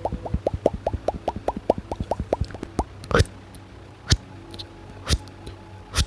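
Layered ASMR mouth sounds: a quick run of wet popping plops, each dropping in pitch, about five a second, until nearly three seconds in. Then four single sharp clicks follow, about a second apart.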